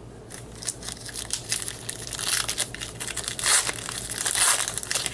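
Foil wrapper of a baseball card pack being torn open and crinkled by hand, a dense crackling that grows louder, loudest about three and a half and four and a half seconds in.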